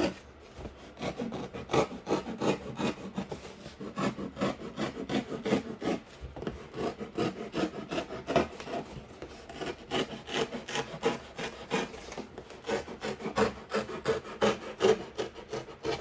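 A knife sawing through corrugated cardboard in quick repeated back-and-forth strokes.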